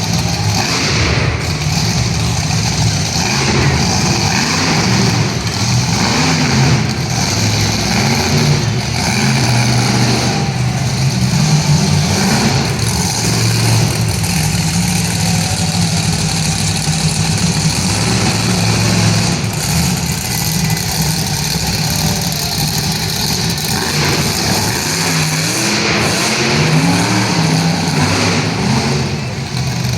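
Monster truck engine running hard through a freestyle run, revving up and easing off again and again, its pitch rising and falling throughout.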